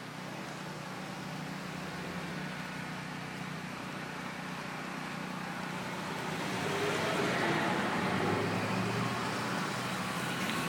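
A motor vehicle engine hums steadily, with road noise that swells louder about two-thirds of the way through as a vehicle comes by.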